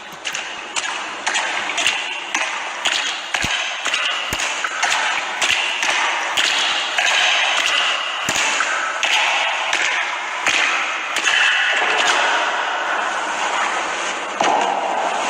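A rapid, irregular series of sharp knocks and clicks over a hissing wash, growing denser and louder as it goes.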